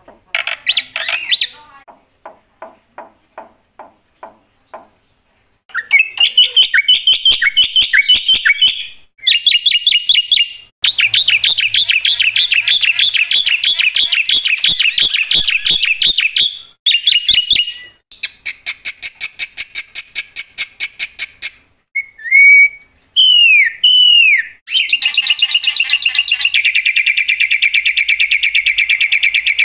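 Black-winged starling (jalak putih) singing loudly in long bursts of fast repeated notes and trills, its song packed with mimicked phrases. A few swooping whistles come near the end.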